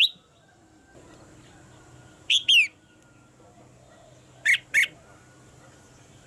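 Caged female red-whiskered bulbul calling: a pair of short, sharp, falling notes about two seconds in, then another quick pair about two seconds later. These are female calls of the kind used to provoke male bulbuls into singing.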